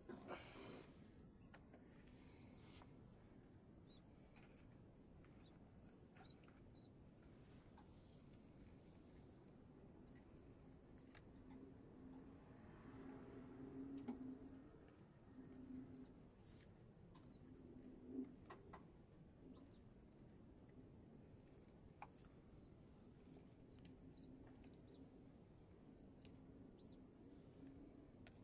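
Faint, steady high-pitched trilling of crickets, a fast even pulse that never stops. A faint low hum comes and goes in the middle.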